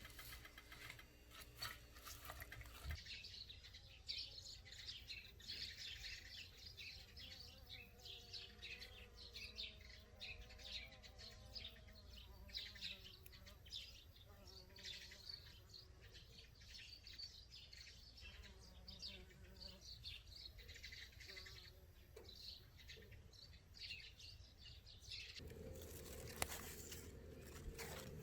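Faint birds chirping: many short, high calls over a quiet background. Near the end the chirping gives way to a low, steady hum.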